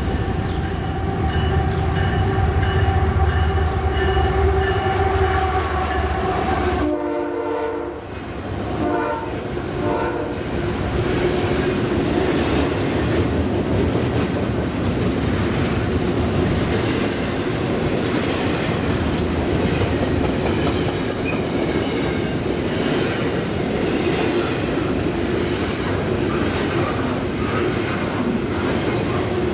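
Diesel locomotive horn blowing a steady multi-note chord over a heavy engine rumble for about seven seconds. After a sudden break comes a short horn sound, and then a train rolls steadily past with continuous wheel-on-rail noise.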